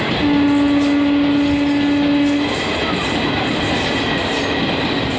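Express train passing at speed through a station without stopping, its coaches making a steady loud running noise on the rails. A single-pitched train horn sounds once near the start, held for about two seconds.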